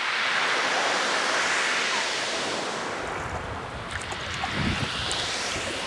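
Big sea swell surging and washing, a steady rush that swells and fades, loudest at the start with another surge about four to five seconds in, with wind on the microphone.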